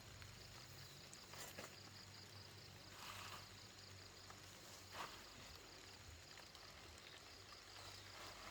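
Near silence: a few faint clicks, the clearest about five seconds in, over a faint, quick, steady high pulsing.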